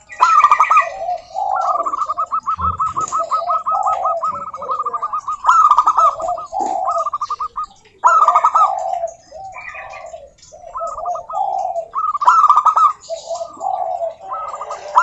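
Several zebra doves singing at once, each song a rapid run of short, staccato cooing notes, the phrases overlapping at a higher and a lower pitch. Brief high chirps come in between the phrases.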